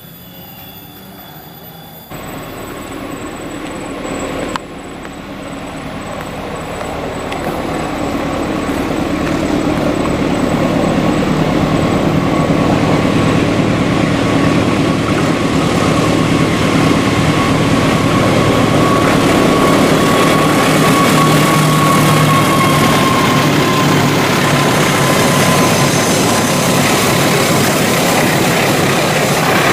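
A diesel-hauled passenger train approaching and passing on a sharp curve. The locomotive's engine and the rumble of the wheels grow steadily louder over the first ten seconds or so, then hold loud as the coaches run by. A thin, steady wheel squeal from the curve runs through most of it and fades near the end.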